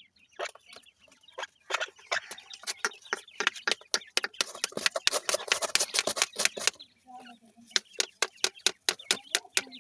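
Grey francolin chicks pecking at feed: a rapid, uneven run of sharp taps, densest in the middle and thinning out near the end.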